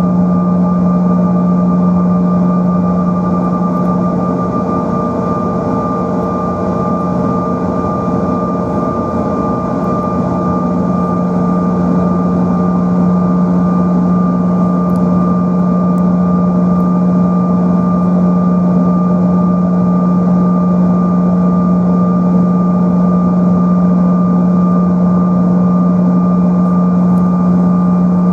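The CRJ-900's rear-mounted General Electric CF34 turbofan engines running steadily, heard from inside the cabin as a loud rushing noise with a steady low hum and a few higher whining tones.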